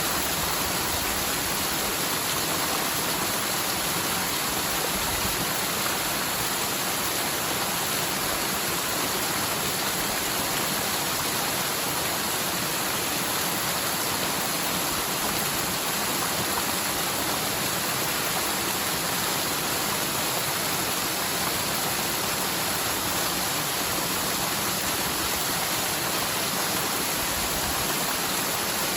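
Storm-swollen mountain stream rushing steadily, its water running high after a typhoon's heavy rain on a channel that is normally almost dry.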